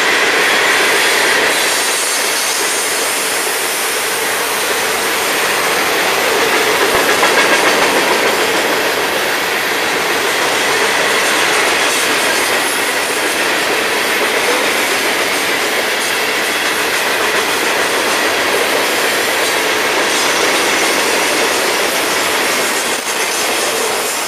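Long freight train's cars rolling past, a steady loud rattle and rumble of wheels clicking over the rail joints.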